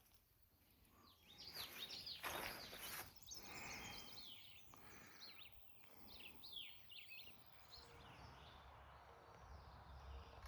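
Small birds chirping faintly, a run of quick high chirps in the middle of the stretch, with a few brief rustles before them.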